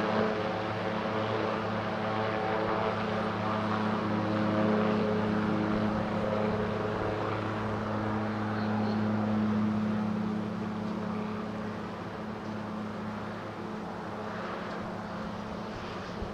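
A light propeller aircraft's engine running at a steady pitch. It grows somewhat quieter after about eleven seconds.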